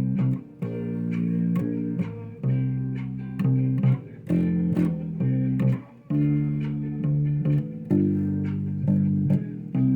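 Electric bass guitar playing a slow line of held, plucked notes in the key of F, changing note about once or twice a second with a brief break near the middle.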